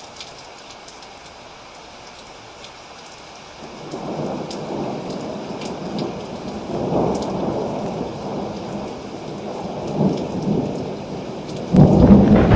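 Steady rain with scattered drop clicks, and thunder rolling in about a third of the way through, rumbling up and down, before a sudden loud thunderclap breaks near the end.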